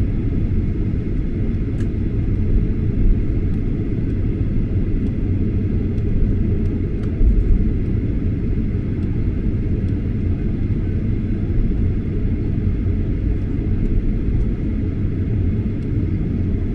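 Steady low rumble of cabin noise inside a Boeing 737-800 airliner in flight, the engines and airflow droning without change.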